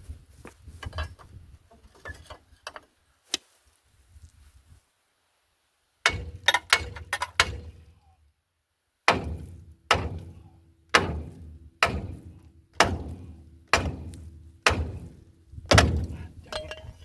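Hammer striking steel parts of a car's front suspension to knock them loose for coil spring removal: a quick flurry of about five blows, then steady blows about once a second, with a faint metallic ring between them.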